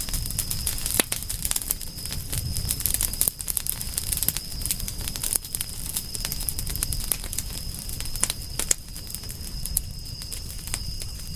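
Wood fire crackling, with frequent sharp snaps and pops over a low rumble. A thin, steady high-pitched tone runs underneath.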